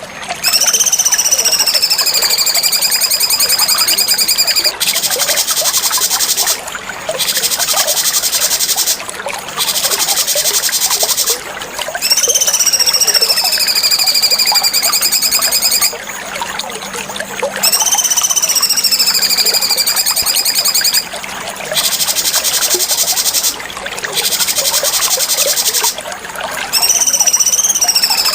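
Cucak cungkok songbird singing a repeated phrase: a long clear whistle that rises briefly, then slides down and levels off, alternating with a rapid buzzy trill, several times over with short pauses. A faint trickling of water runs underneath.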